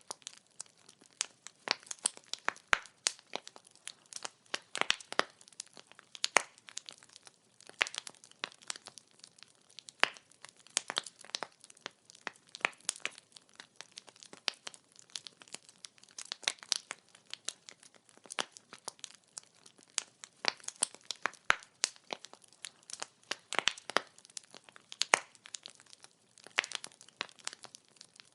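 Burning firewood crackling: a continuous, irregular run of sharp pops and snaps, several a second, over a faint hiss.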